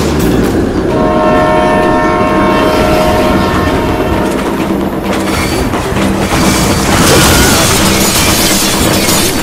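Train sound effects: a passing train with wheels clattering over the rails and a steady multi-note horn sounding for about three seconds, starting a second in. Near the end, a loud rush of noise takes over.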